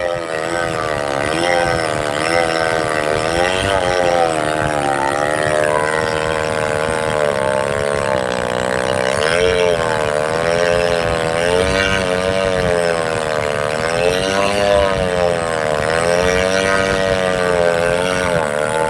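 Chainsaw engine running under load while cutting into a tree trunk, its pitch dipping and rising every second or two as the chain bogs in the wood and recovers.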